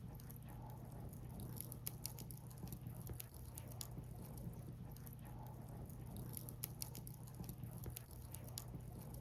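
Burning firewood crackling, with many small irregular sharp pops and snaps over a low steady rumble.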